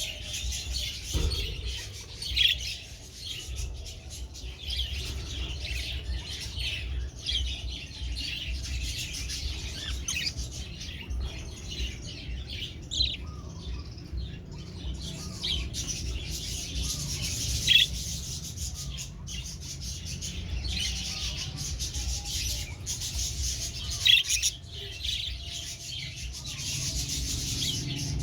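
Budgerigars chirping and chattering continuously, with a few sharper, louder calls, over a steady low rumble.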